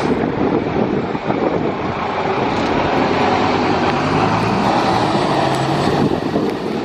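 Public transport vehicle running close by: a loud, steady rush of noise, with a low engine hum rising out of it about four seconds in.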